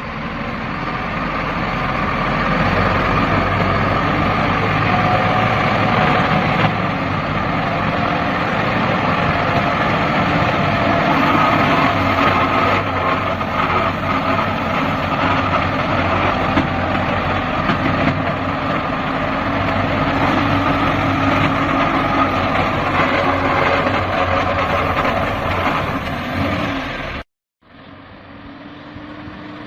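Heavy log truck's engine running hard under load as it struggles through deep mud, a steady labouring drone with slight shifts in pitch. It cuts off abruptly near the end.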